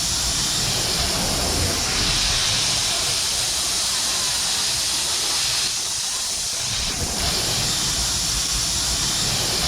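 Wind rushing over a GoPro Hero7 Black's microphone: a steady loud hiss with a gusty low rumble that rises and falls.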